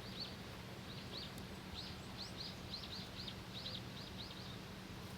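Small birds chirping: a quick series of short, high chirps, many in pairs, that stops shortly before the end, over a low steady hum.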